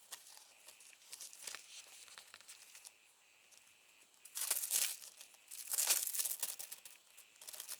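Paper crinkling and tearing as it is handled: light rustles at first, then two louder crackling bursts about four and a half and six seconds in.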